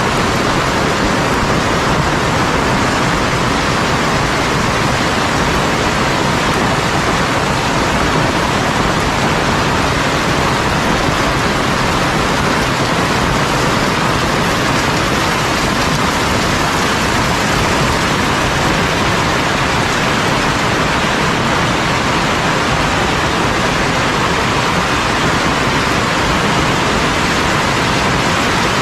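Heavy rain falling as a loud, steady, dense hiss with no let-up.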